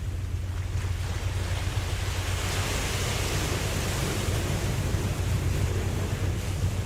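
Ocean wave washing in: a hiss of surf swells from about a second in, peaks midway and fades out over a few seconds, over a steady low rumble of the sea.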